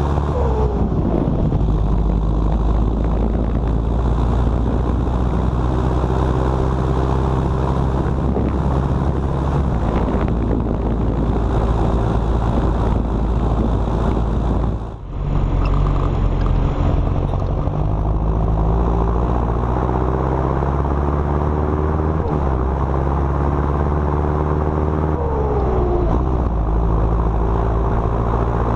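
John Deere 6230 Premium's four-cylinder turbocharged diesel engine pulling a loaded silage trailer, running steadily. Its pitch falls a few times, near the start and in the second half, and the sound dips briefly about halfway through.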